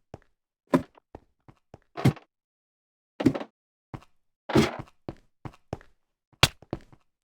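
A series of irregularly spaced knocks and thuds, a few of them louder with a short echoing tail, separated by silence.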